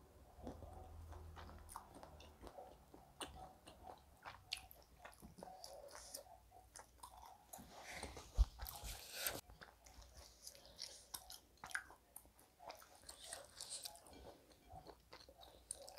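Close chewing and mouth sounds of a person eating rice and duck by hand, picked up by a clip-on microphone, with small scattered clicks of fingers and food on the plate. A louder knock with a short rustle comes about eight seconds in.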